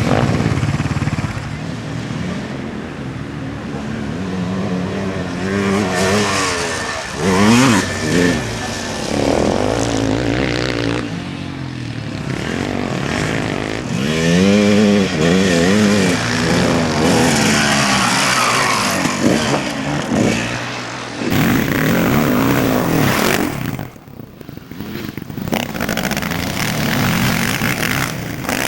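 Motocross bikes' engines revving hard as riders pass on the track, the pitch rising and falling with each throttle change and pass.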